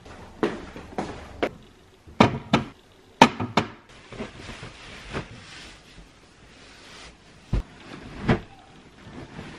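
A series of irregular knocks and clatters, about ten in all, the loudest bunched between about two and four seconds in, like hard objects being handled and set down.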